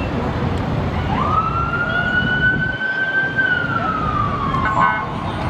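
Emergency vehicle siren sounding one wail: it rises about a second in, holds, then falls slowly, over a steady low engine and road rumble. A short, harsher blast, likely a horn or yelp tone, cuts in near the end.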